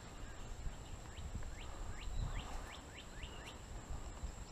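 A bird calling a quick series of about eight short sweeping notes, starting about a second in and lasting some two and a half seconds.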